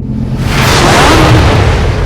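A loud rush of noise with a car engine revving up through it, the pitch climbing about half a second in.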